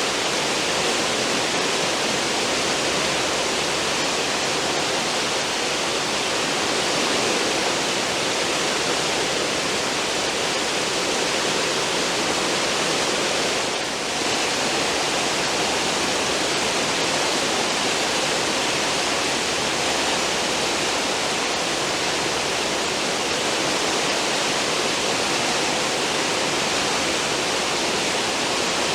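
A cruise ship's wake: steady rushing and churning of sea water behind the stern, with a brief dip in level about halfway through.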